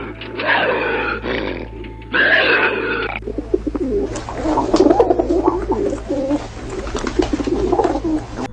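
Animal calls: one animal's calls for about three seconds, then a cut to a different animal's low, warbling calls with scattered clicks.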